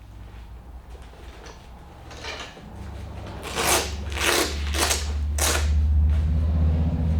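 Zipper on a fabric motorcycle backpack pulled in four quick rasping strokes. Underneath, a low engine rumble grows louder toward the end.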